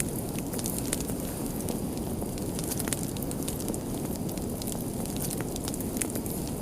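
Fire crackling, with frequent irregular sharp pops and snaps over a steady low rush of burning flames.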